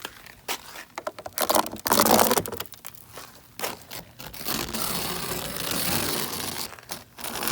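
Winter storm wind gusting on the microphone, mixed with a scatter of sharp clicks and crunching. There is a loud gust about two seconds in and a longer stretch of wind from the middle on.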